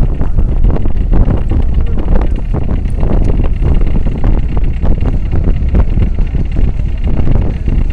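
Wind buffeting the microphone aboard a moving boat, a loud, uneven low rumble, with the boat's engine running underneath.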